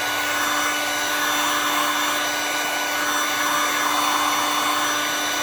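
Hot-air heat gun running steadily, its fan motor humming over the rush of blown air, used to soften the adhesive holding a phone's glass back cover.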